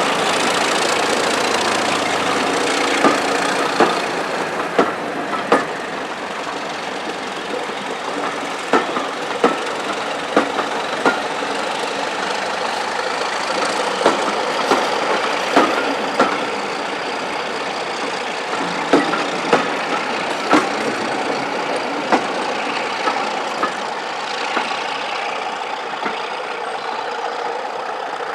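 A train running, with a steady rumble and sharp clicks recurring irregularly about once a second.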